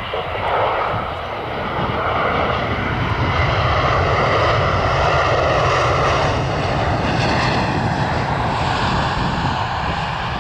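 Airbus A320-214's CFM56-5B turbofan engines as the airliner lands: a steady, loud jet noise with a higher whine running through it.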